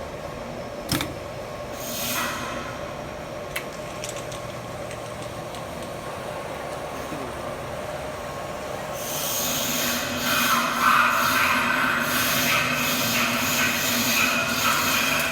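Automatic ultrasonic bottle washing machine running with a steady hum, with a couple of sharp clicks and a short hiss in the first few seconds. About nine seconds in, a louder hissing starts and pulses unevenly.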